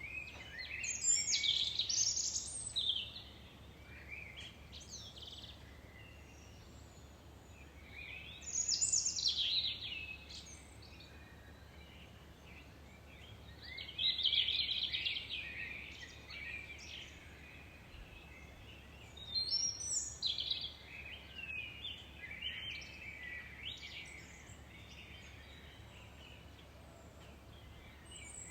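Songbirds singing in separate high-pitched phrases of chirps and trills, each lasting a second or two, with pauses of several seconds between them over a faint steady background hiss.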